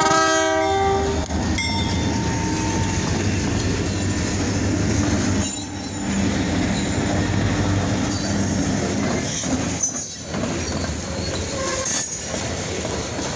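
A multi-note locomotive horn chord that cuts off about a second in, then EMD SD40-2 diesel locomotives passing close with their 16-cylinder two-stroke engines running. Freight cars (covered hoppers) follow, rolling by with steady wheel-on-rail noise.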